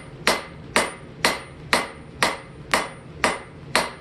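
Blacksmith's hammer striking hot steel at a steady pace, about two blows a second, each with a short ring. The head of an old brick hammer is being flattened out.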